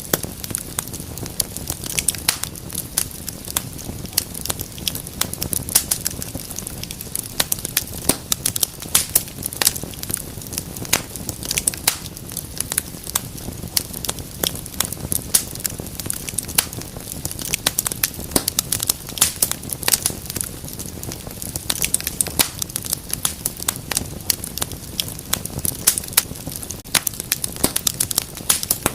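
Wood fire in a fireplace crackling, with frequent irregular sharp pops and snaps over a low, steady rush of flames.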